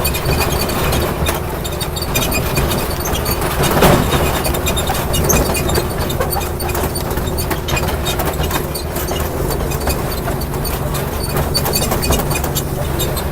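Steady engine hum and running noise of a train, heard from on board, with small clicks and rattles.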